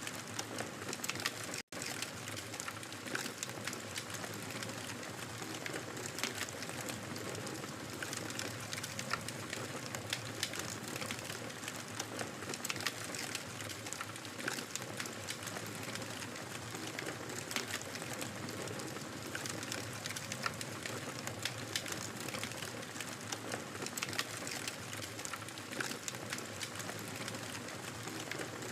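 Wood fire in a fireplace crackling steadily: a soft hiss dotted with irregular sharp pops and snaps. The sound cuts out for a split second early on, then carries on.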